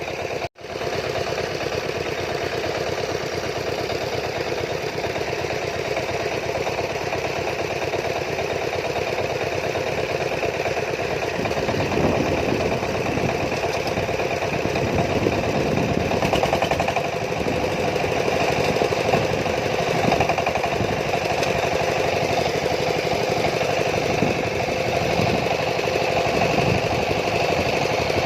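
An engine running steadily, cutting out for an instant about half a second in and getting a little louder and rougher from about halfway through.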